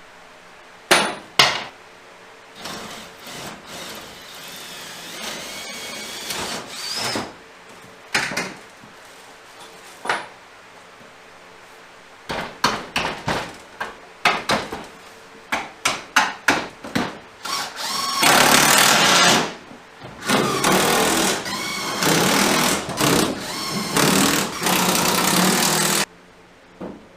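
Power drill running in short bursts and then in longer runs, mixed with sharp knocks and clatter of parts being handled.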